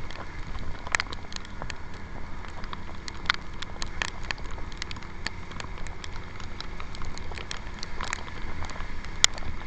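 Raindrops hitting the camera on a moving motor scooter in many irregular sharp taps, over a steady low rumble of wind and the scooter running on a wet road.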